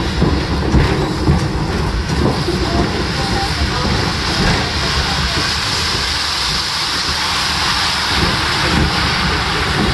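Steady rumble and rattle of an open-sided passenger car rolling along the track behind a steam locomotive, with a hissing noise that grows stronger in the middle.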